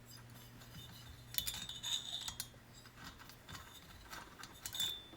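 Small metal parts and hand tools being handled on a workbench: two short bursts of light metallic clinks and rattles, one about a second and a half in and one near the end, over a faint steady hum.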